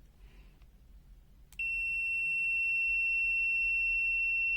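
FUYI FY123 multimeter's continuity buzzer giving a steady high-pitched beep that starts abruptly about one and a half seconds in, with a click as the test leads touch: the probes are shorted together, so the meter reads continuity.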